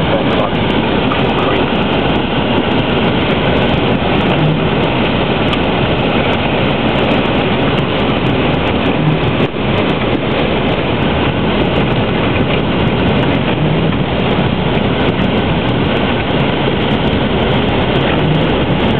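A vehicle driving: a loud, steady rumble of engine and tyre noise on the road.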